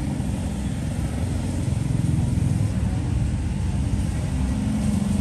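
Steady low rumble of road traffic, with a vehicle engine growing louder near the end.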